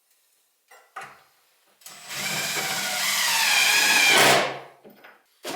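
Electric drill motor running for about two and a half seconds, growing slightly louder with a wavering whine, then winding down quickly.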